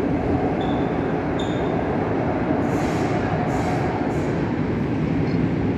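Passenger train hauled by an EU07 electric locomotive rolling away through an underground station: a steady, echoing rumble of wheels on rails, with a couple of brief high squeaks in the first two seconds.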